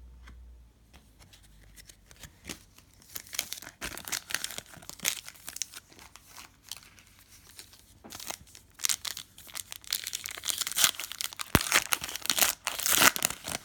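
Crinkling and tearing of a foil trading-card pack wrapper being opened, in repeated bursts.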